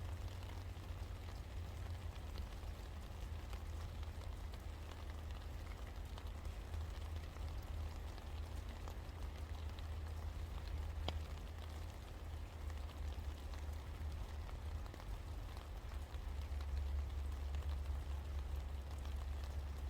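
Steady rain falling, an even hiss scattered with many small drop ticks, over a low rumble that swells for a few seconds near the end.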